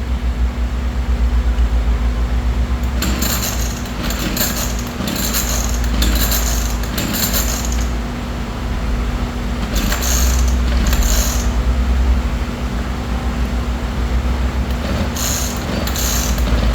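Echo chainsaw's recoil starter being pulled over and over in three runs of quick pulls, the engine not catching: a hard start.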